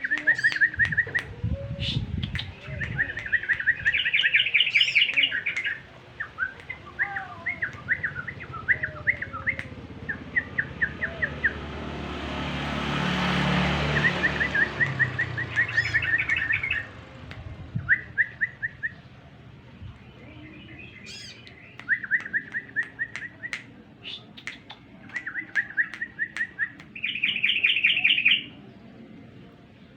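Yellow-vented bulbuls (trucukan) calling as a lure recording: repeated bursts of rapid chattering notes, some higher and buzzier. Midway a rushing noise swells and fades under the calls.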